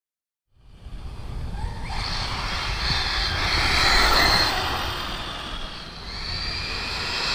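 Arrma TLR Tuned Typhon 1/8-scale electric RC buggy on a 4S battery making a speed run: the electric drive's high whine rises as the buggy accelerates and passes, loudest about 4 s in, fades, then rises again near the end. Starts suddenly about half a second in, with a low rumble of tyres and wind under it.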